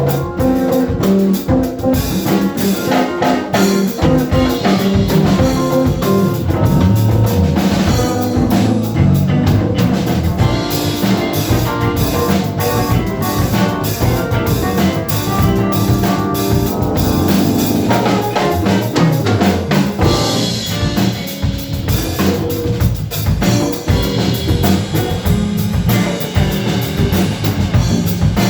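Live band playing an instrumental: drum kit and electric guitar over a bass line, with steady drum hits throughout.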